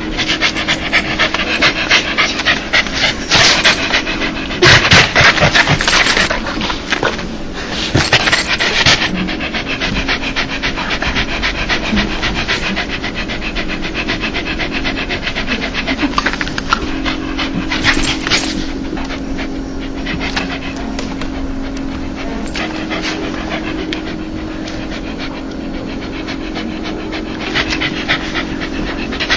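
A dog panting rapidly and continuously: the quick, open-mouthed panting of a happy, excited dog. It is louder and heavier for a few seconds early on and again briefly a little past halfway.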